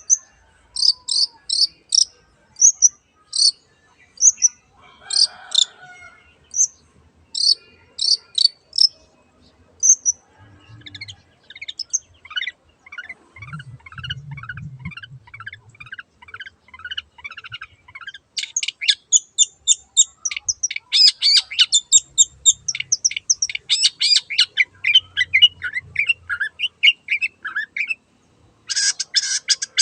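Long-tailed shrike (cendet) singing. It opens with a string of separate sharp, high notes, then breaks into fast chattering runs that climb higher and grow denser. The song stops briefly near the end and then starts again.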